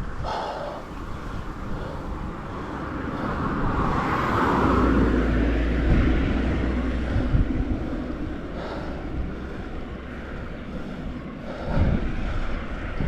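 Wind rushing over a bicycle-mounted action camera's microphone while riding, with a motor vehicle passing on the road: its noise swells to a peak about four to six seconds in and fades away.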